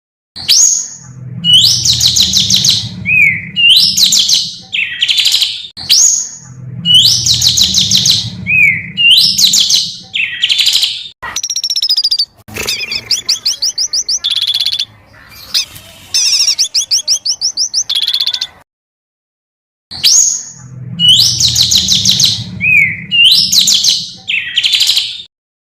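A recorded songbird sings loud, high phrases of whistles and trills. The same phrase comes back three times, and in the middle there is a fast, rattling trill of rapidly repeated notes.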